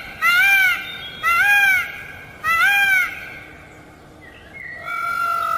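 Green peafowl calling: three loud, arched calls about a second apart, then after a short pause a longer call held at one pitch near the end.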